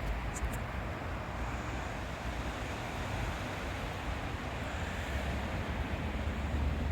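A car on the move: steady low engine and road rumble with tyre hiss.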